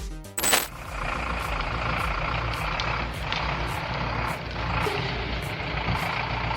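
Heavy vehicle engine running steadily, with a short loud knock about half a second in.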